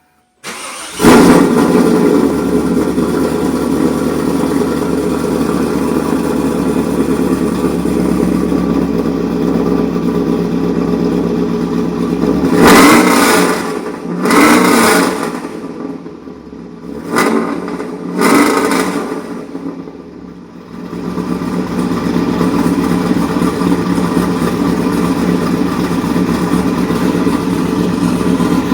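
1998 Pontiac Trans Am's LS1 V8, with a TSP 228R camshaft, headers and aftermarket exhaust, cold-started. It cranks briefly, catches about a second in and runs at a fast idle. Midway it is revved several times in quick succession, dips, and settles back to a steady idle.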